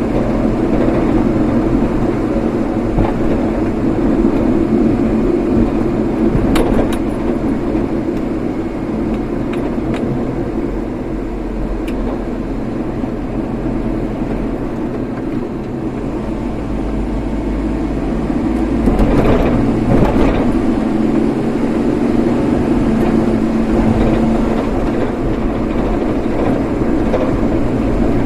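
Steady engine and road noise from a vehicle driving along, with a brief swell of louder noise about nineteen seconds in.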